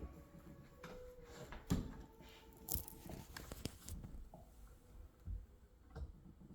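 Irregular clicks, knocks and scraping from the Edison phonograph being handled and set up to play a cylinder.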